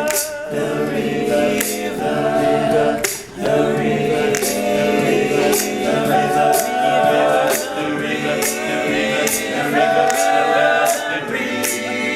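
Male a cappella group singing wordless backing chords, with sharp percussive hits about once a second keeping the beat.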